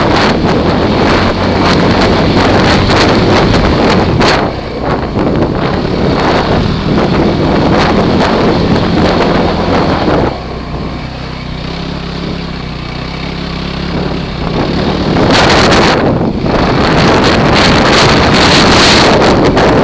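Heavy wind buffeting on the microphone of a Kawasaki KFX ATV being ridden, with the quad's engine running steadily underneath. The buffeting eases for a few seconds in the middle, leaving the engine's hum plainer, then comes back strongly.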